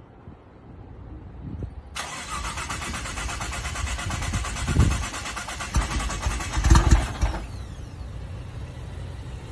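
Nissan GT-R R35's twin-turbo V6 running through an Armytrix aftermarket exhaust. It builds up, gives two loud revs about halfway through, then settles to a steady idle.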